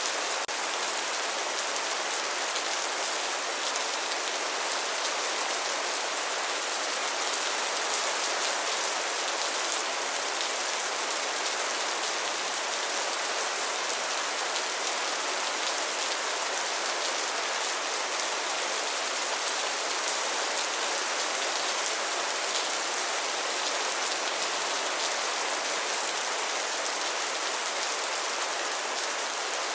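Steady rain falling on a surface, an even hiss of many fine drops with no let-up.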